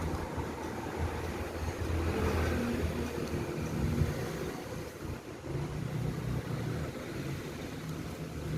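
A steady low mechanical hum with a rough rumble, like a motor or engine running.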